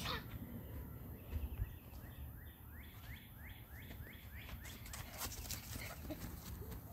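Faint outdoor background with a bird calling about two seconds in: a quick run of about eight short repeated notes.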